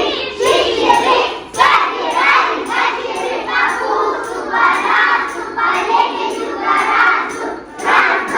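A group of young children singing together in unison, phrase after phrase.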